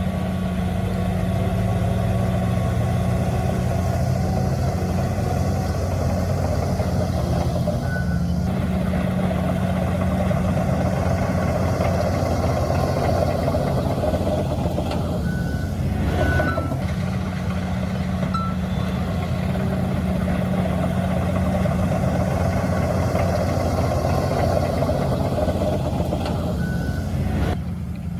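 Heavy diesel earthmoving machinery running steadily, dump truck and bulldozer engines working under load. A few short, high beeps sound now and then.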